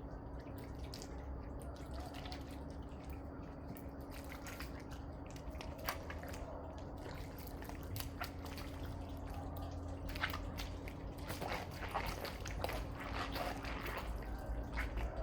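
Water dripping and splashing into a drain, with scattered small splashes over a steady low hum.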